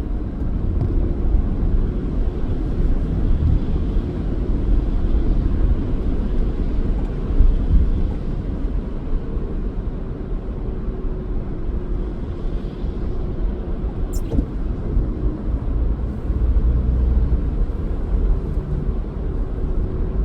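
Car driving along: steady low rumble of road and engine noise, with a faint steady hum and one short click about fourteen seconds in.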